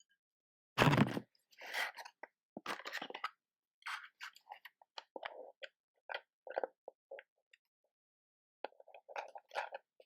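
Matches and a matchbox handled close to the microphone: one loud, brief scrape-like hit about a second in, then a string of small, irregular crackles and taps.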